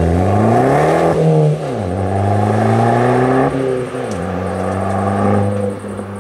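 Fiat 500 Abarth's turbocharged 1.4-litre four-cylinder, on a titanium exhaust, accelerating hard away. It shifts up twice, about a second and a half in and again near four seconds, then holds steady revs as it drives off into the distance.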